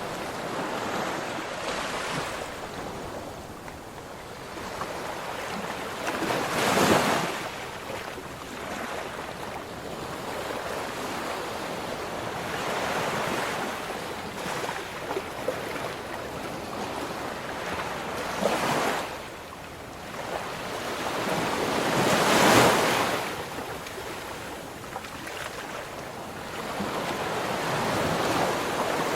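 Ocean waves breaking and washing on a shore, a steady surf wash with a louder wave breaking about a quarter of the way in, another about two-thirds in, and the loudest shortly after.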